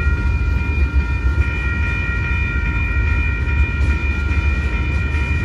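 Freight train tank cars rolling steadily past at a grade crossing: a heavy continuous low rumble, with a steady high-pitched ringing held over it.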